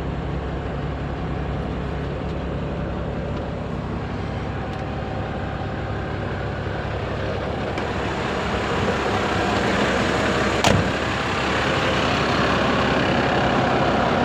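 Renault Midlum 220 dCi truck's diesel engine running steadily, growing louder from about halfway through, with one sharp click a little after that.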